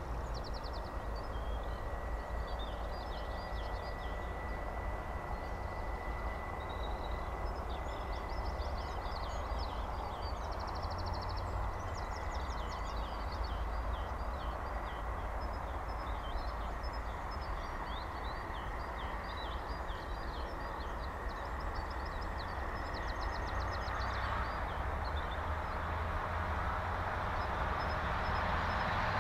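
Outdoor ambience: birds chirping and trilling over a steady low rumble, the rumble growing louder near the end.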